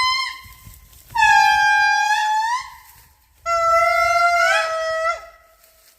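Indri lemurs singing: long, drawn-out wails, each held at a steady pitch and then bending upward as it ends. Two full wails, the second lower than the first, with a second voice overlapping near its end.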